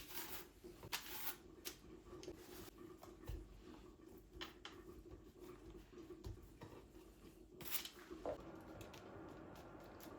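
Scattered light clicks and rustles of small objects being handled, over a low steady hum; a steady hiss comes in about eight seconds in.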